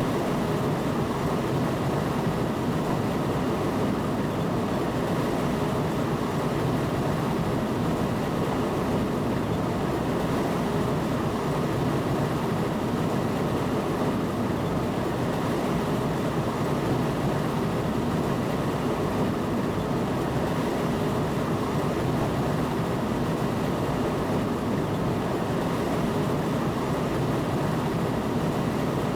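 Steady running noise of a train in motion, heard from inside the driver's cab: an even rumble that holds level throughout.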